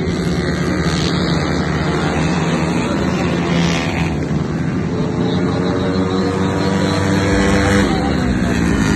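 Racing Yamaha Mio scooter engines with Empush performance exhausts running hard at high revs. One engine's pitch climbs steadily, then drops quickly near the end.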